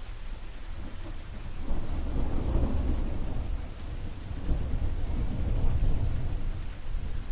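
Steady rain with a low roll of thunder that swells about a second and a half in, eases, then rumbles up again past the middle.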